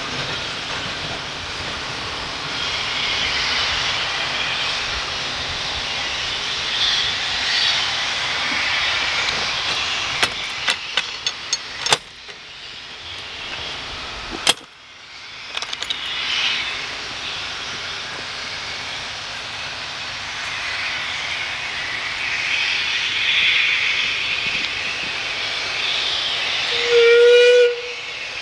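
Steam train with a steady hiss of steam, broken in the middle by a run of sharp clicks and two sudden drop-outs of the sound. Near the end comes one short, loud blast on a steam whistle.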